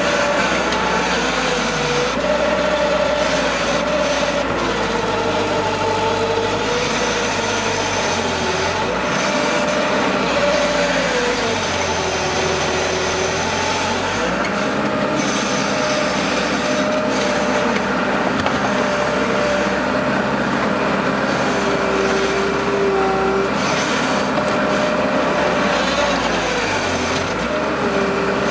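Case skid steer loader's diesel engine running steadily under working load, its pitch drifting up and down as the machine works.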